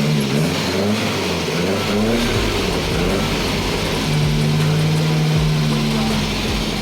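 Nissan 1400 bakkie's 1.4-litre four-cylinder petrol engine running and being revved, its pitch rising and falling. About four seconds in it settles to a steady speed.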